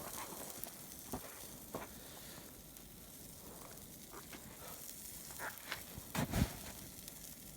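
Shashlik sizzling over a wood fire, a steady faint hiss with scattered sharp crackles and a louder knock about six seconds in.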